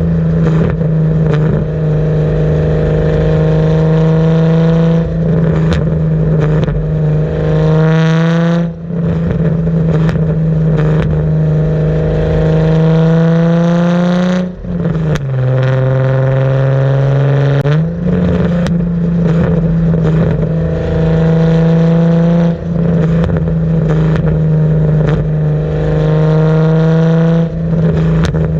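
Car engine through a Tomei cat-back exhaust, run hard and loud: the pitch climbs several times over a few seconds each and drops back at each brief lift, as when accelerating through the gears.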